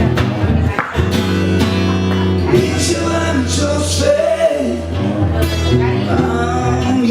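Live rock band playing: bass, guitar and drums, with a voice singing a wavering melodic line over them.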